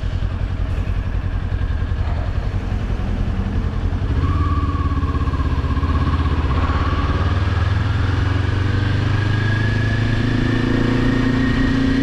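Motorcycle engine running, getting louder about four seconds in, then climbing slowly and steadily in pitch as the bike accelerates.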